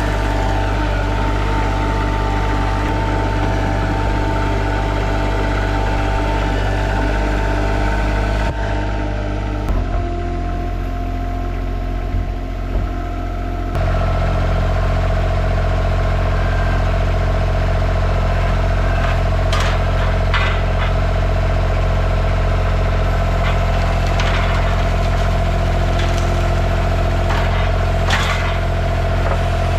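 KRT ST900HD mini skid steer engine running steadily. About nine seconds in the engine note drops lower and quieter, then comes back up about fourteen seconds in. In the second half there are several sharp knocks and clanks.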